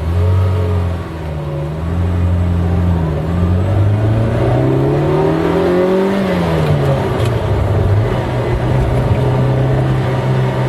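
Eight-cylinder car engine under acceleration, its note rising for about five seconds, then falling away at about six seconds and settling to a steady drone.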